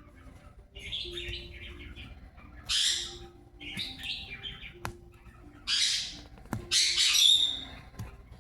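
Pet parrot giving about five short, harsh squawks, the loudest near the end, with a few sharp clicks between them.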